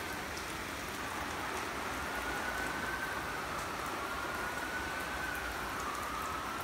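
Steady downpour of heavy rain. A faint siren wails slowly up and down over it.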